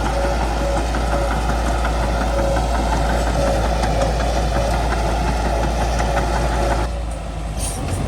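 Bulldozer's diesel engine running with a steady rattling clatter, a broken whine or squeal coming and going over it. About seven seconds in the sound suddenly drops and turns thinner.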